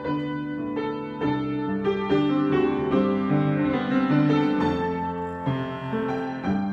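Solo piano improvisation: sustained chords and melody notes that change about every half second to a second, with held notes ringing over one another.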